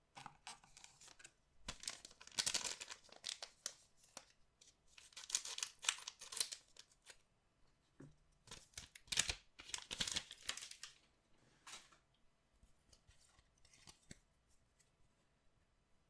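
Packaging of a collectible trading-card box being torn open and crinkled by hand, in four loud bursts of tearing and rustling, then a few fainter crinkles near the end.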